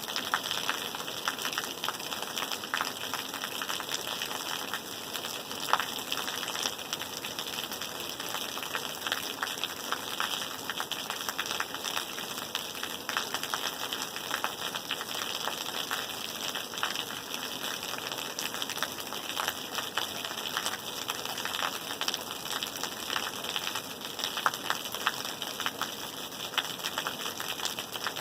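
Steady rain falling, a constant hiss with many small drop impacts pattering through it.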